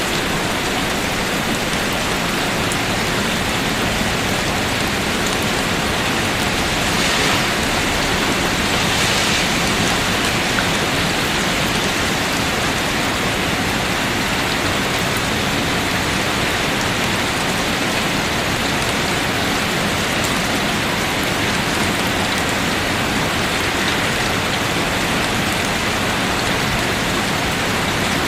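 Steady falling water with a rain-like hiss, even and unbroken.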